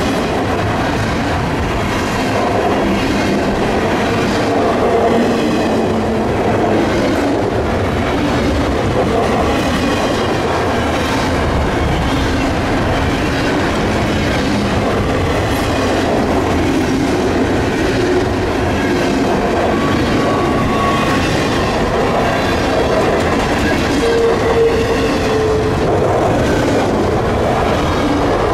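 Freight train cars rolling past at close range: a steady rumble of wheels, clicking rhythmically over rail joints, with a few brief wheel squeals.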